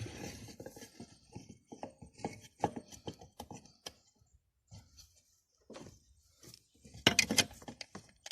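Irregular small metallic clicks and knocks as a stainless steel bolt, nut and bracket are handled and test-fitted by hand. A louder cluster of knocks comes about seven seconds in.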